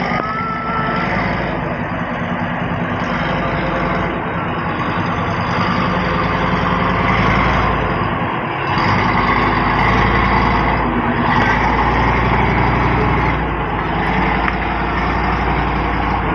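Large engine running steadily with a low, even drone and a rushing noise over it that swells a little about halfway through.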